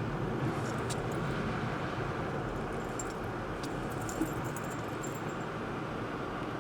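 Steady road and engine noise of a car driving, heard from inside the cabin, with a few faint light clicks or jingles in the middle.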